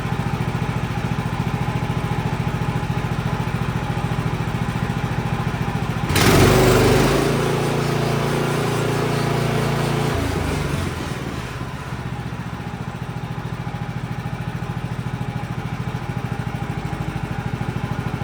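Band sawmill's engine running steadily at idle. About six seconds in it gets louder and higher for some four seconds, then drops back to its steady idle.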